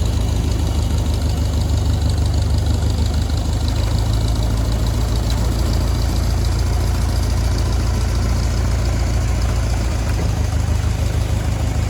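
All-terrain forklift's engine running steadily with a deep, even hum.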